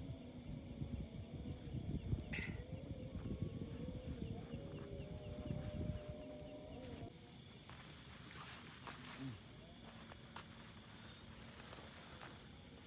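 Insects chirping steadily in a high, even band. Over the first six seconds or so there is a louder, irregular low rumbling noise that stops abruptly.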